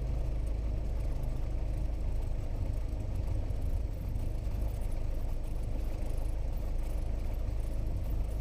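Cessna 172S's four-cylinder Lycoming engine running at low taxi power, a steady low drone heard inside the cockpit.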